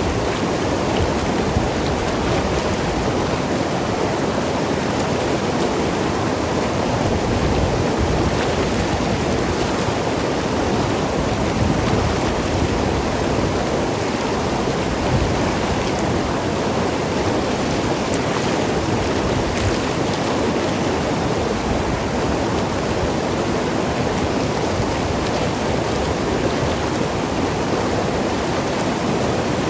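Mountain river running steadily over rocks, a constant rushing and gurgling of water.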